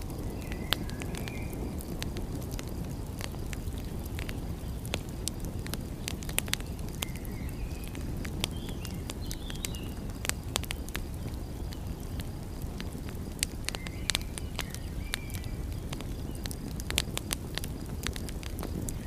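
Wood fire crackling, with frequent sharp pops and snaps over a steady low rumble. A few short, high chirps come every few seconds.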